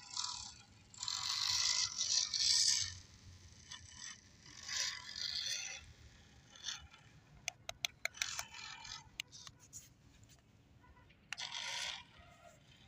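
Scraping and rustling in four separate bursts, with a quick run of sharp clicks in the middle.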